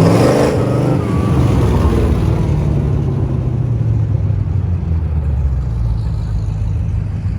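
Classic cars' engines rumbling as they drive slowly past in a line, one car loud and close right at the start and fading over the first second or so.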